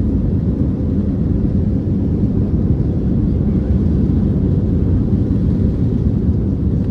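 Airbus A319 jet engines at takeoff thrust, heard from inside the passenger cabin as a loud, steady, deep rumble.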